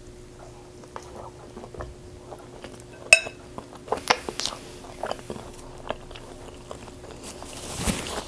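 Close-miked chewing and wet mouth sounds of someone eating loaded carne asada fries. About three seconds in comes one sharp, ringing clink of a metal fork set down against a glass bowl. Near the end there is a soft rustle of a paper napkin wiping the mouth.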